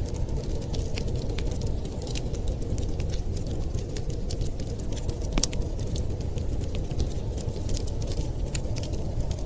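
Wood fire crackling: many small, sharp, irregular pops over a steady low rumble.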